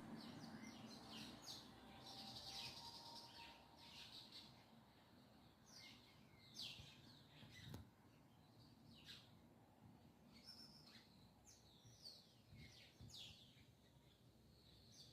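Faint birdsong: small birds giving short, quickly falling chirps at irregular intervals.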